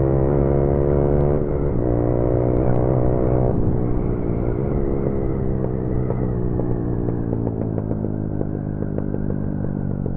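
Motorcycle engine running on the road, heard from the rider's seat, with wind rumble. Its pitch steps twice in the first few seconds, then sinks slowly as the bike eases off.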